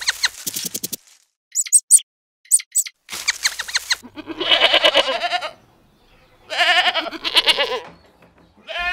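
Goats bleating: two long, wavering bleats about four and seven seconds in, after a few seconds of short clucking calls.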